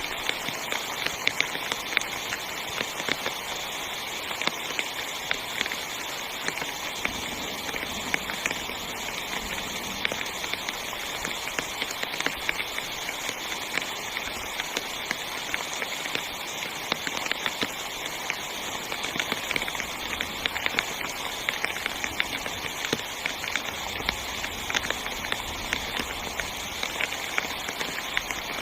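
Heavy rain falling on a tent: a steady, dense hiss full of sharp individual drop impacts.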